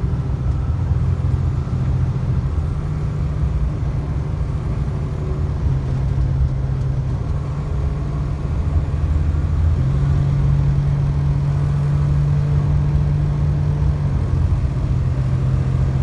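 Semi-truck's diesel engine and road noise heard from inside the cab: a steady low drone whose pitch steps up or down slightly a few times.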